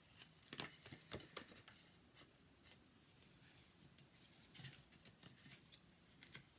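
Faint rustles and light taps of paper and card stock being handled on a desk, with a few sharper clicks in the first second and a half and scattered softer ones after.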